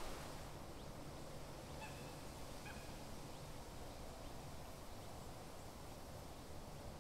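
Two short bird calls, about half a second apart, a couple of seconds in. Behind them is a faint, steady low rumble and hiss of open-air background.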